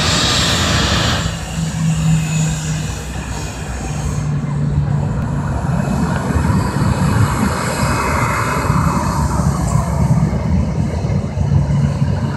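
Boeing 737 jet engines running steadily: a low rumble with a steady hum, and a high hiss that drops away about a second in.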